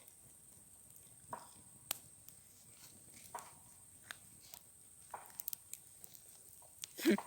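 Quiet chewing and crunching of toasted bread crust, with scattered faint clicks. A short voice sound comes near the end.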